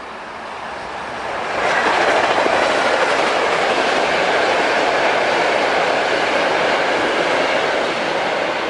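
A passenger train passing close by, its wheels running on the rails. The sound swells sharply about a second and a half in, stays loud, and starts to fade near the end.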